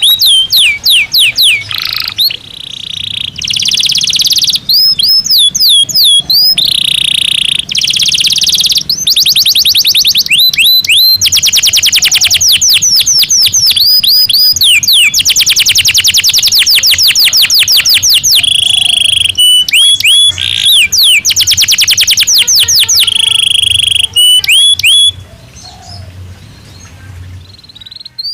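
Domestic canary singing from its cage. The song runs in fast trills of repeated sweeping notes, strung together with a few held, rolling phrases. It drops to a much softer passage near the end.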